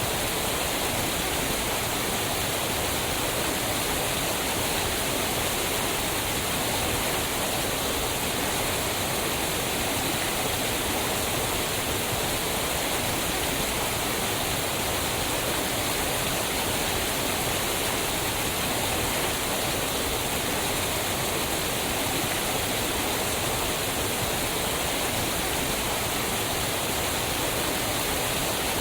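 Waterfall: water pouring and splashing onto rocks in a steady, unbroken rush.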